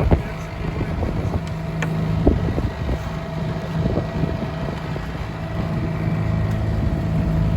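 Boat motor running steadily, with wind buffeting the microphone and a few light knocks.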